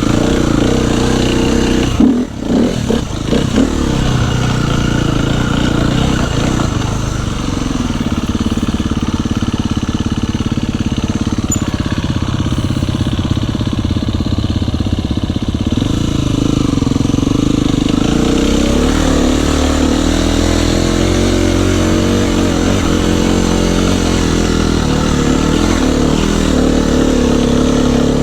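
Dirt bike engine running steadily under way on a trail, with a short uneven stretch about two to four seconds in where the note dips and picks up again a few times.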